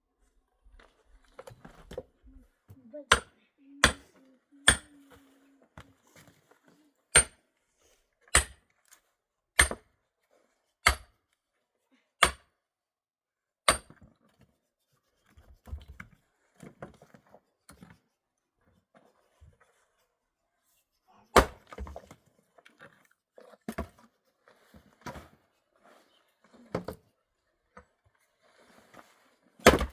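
Wood being chopped: a run of sharp, evenly spaced blows about once every second and a quarter, then a pause and more scattered knocks and strikes in the second half.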